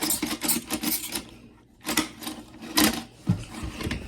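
Rapid plastic clacking and clicking of Akedo toy battle figures striking each other in their arena, stopping briefly about a second and a half in and then going again.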